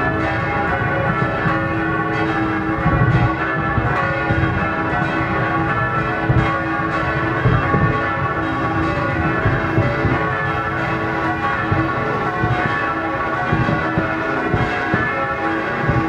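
Church bells ringing steadily, many overlapping tones, over a continuous barrage of fireworks banging and booming at New Year's midnight.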